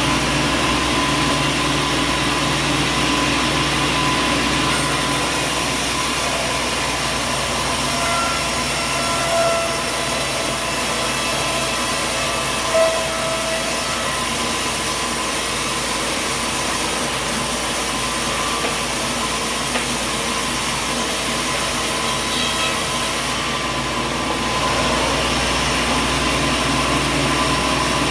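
Sawmill machinery running with a steady mechanical drone and hiss, with two short squeaks about a third of the way in.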